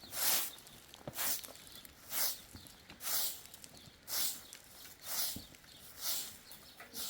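Broom sweeping the ground in even strokes, one swish about every second.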